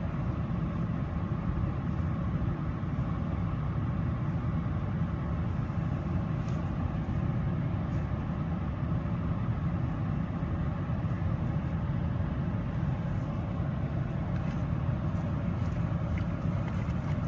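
Steady low rumble of a vehicle engine idling, unchanging throughout.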